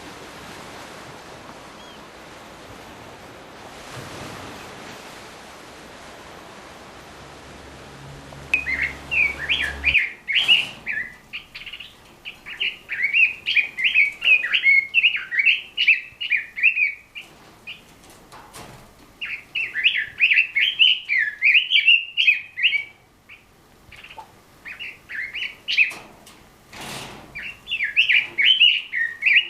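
A Chinese nightingale (Pekin robin) singing fast, rich warbling phrases a few seconds long with short pauses between them. The song starts about a third of the way in, after a stretch of steady hiss.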